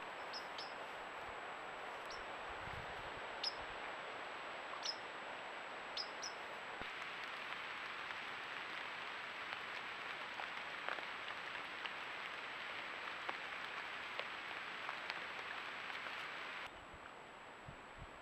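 Trail-camera outdoor sound: a steady hiss with a thin, constant high electronic whine, and a few short high bird chirps in the first six seconds. The hiss drops quieter near the end.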